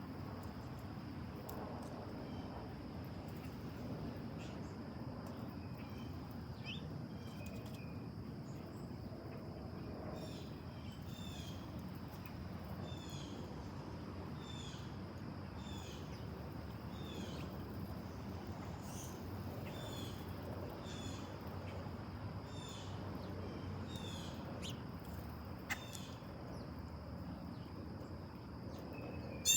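A bird repeating a short down-slurred call note about once a second, over a steady high drone and low outdoor background noise. There is a sharp click near the end.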